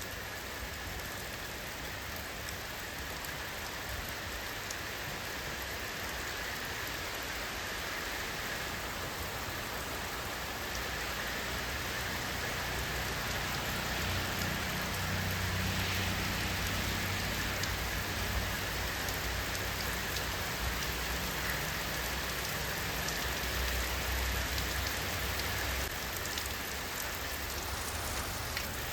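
Steady rain falling on surfaces, a dense even wash with many individual drops ticking through it. A low rumble swells underneath from about halfway through.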